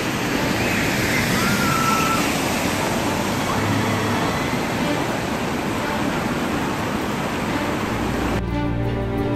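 Heavy rain pouring down on a flooded street, a steady rushing hiss, with car tyres splashing through the standing floodwater. Orchestral music comes in near the end.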